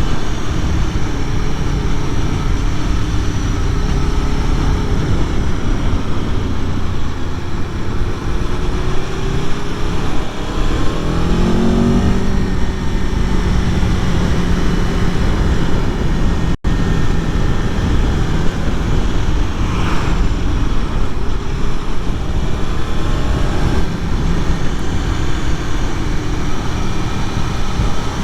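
2021 Aprilia Tuono V4 Factory motorcycle's V4 engine and exhaust running under way, the revs climbing twice, about a third of the way in and again near the end, with steady rumbling wind noise underneath.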